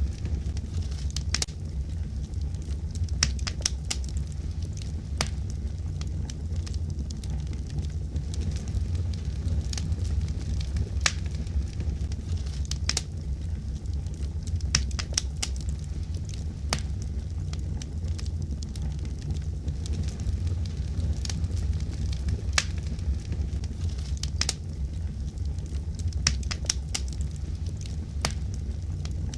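Wood fire in a fireplace burning with a steady low rumble, crackling and popping at irregular moments throughout.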